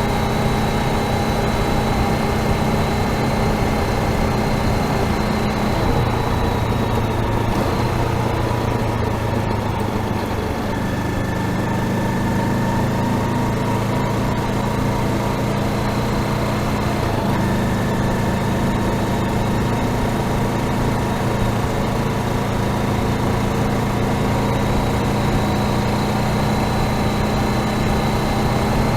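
Honda CBR500R's parallel-twin engine running steadily under way. Its note shifts a few times as engine speed changes.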